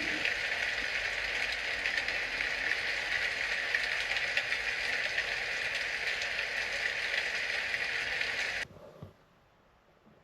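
Heavy rain falling steadily on the roof of a small molded-fiberglass Scamp camper, heard from inside; the sound cuts off suddenly near the end.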